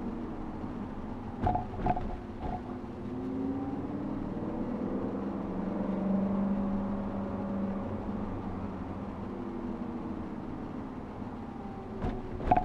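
2013 Audi RS5's 4.2-litre V8 through a Capristo aftermarket exhaust, running with a steady drone as the revs gently rise and fall. A few short sharp clicks come in a cluster about a second and a half in, and twice more near the end.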